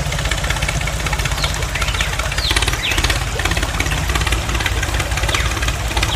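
Small engine idling steadily with a fast, even low throb. A few short high chirps sound over it.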